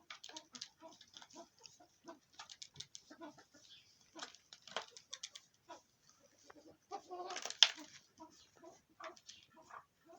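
Pheasants clucking in many short calls, with a louder, longer call about seven seconds in.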